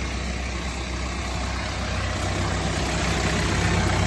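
John Deere 4066R compact tractor's diesel engine idling steadily.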